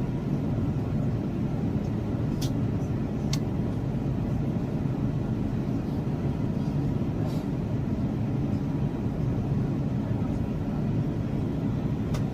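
Steady low rumble of cabin noise inside an Airbus A350 airliner in flight, made by airflow and engines, with a few faint clicks.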